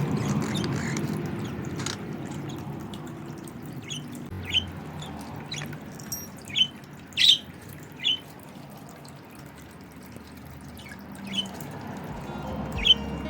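Budgerigar giving about ten short, sharp chirps at irregular intervals, a cluster of the loudest ones a little past the middle, over a low steady background hiss.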